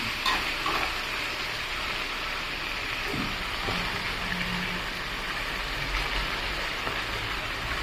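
Chicken pieces with sliced onion and dried red chillies sizzling steadily in oil in an iron kadai.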